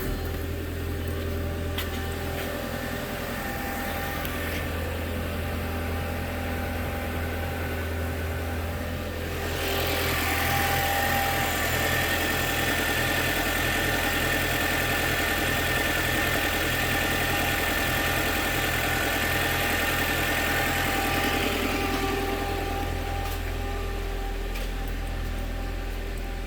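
2004 Volkswagen Passat's 1.8-litre turbocharged four-cylinder engine running at idle. About ten seconds in it grows louder and hissier for some twelve seconds, then settles back to the quieter steady idle.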